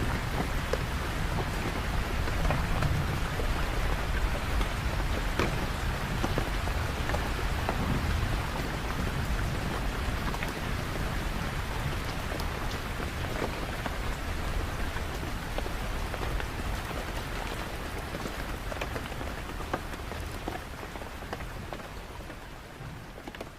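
Steady rain falling, with scattered sharp drop hits over an even hiss and a low rumble in the first half. The sound slowly drops in level and begins to fade out near the end.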